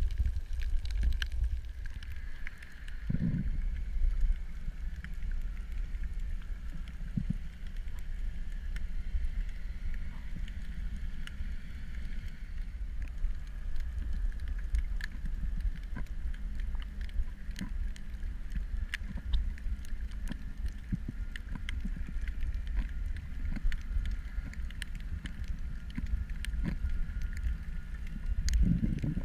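Underwater ambience: a steady low rumble with a faint steady hum higher up and scattered sharp clicks.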